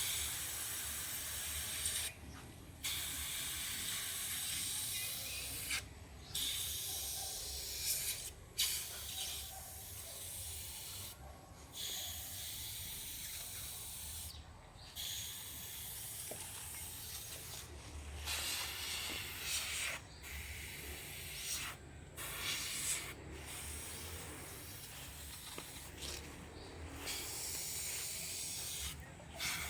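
Airbrush spraying paint with a steady hiss that stops for a moment every few seconds.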